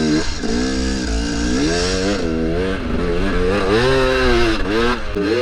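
KTM 300 two-stroke dirt bike engine revving, its pitch rising and falling again and again as the throttle is worked on and off.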